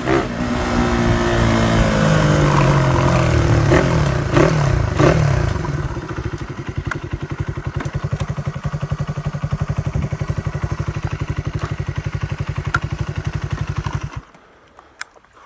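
Honda CY small four-stroke single-cylinder motorcycle engine, on an alternative exhaust, dropping off from revs and settling into a steady, pulsing idle. It cuts off suddenly near the end, after which a few faint clicks are heard.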